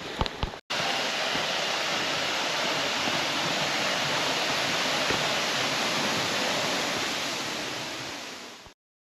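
Steady rush of a waterfall pouring through a rock cave roof, starting abruptly about a second in and fading out shortly before the end.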